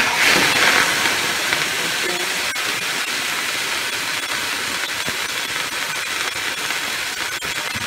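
Salmon steak sizzling in its own fat in a non-stick frying pan: a louder burst of sizzle in the first second as it is turned over with a spatula, then a steady frying hiss.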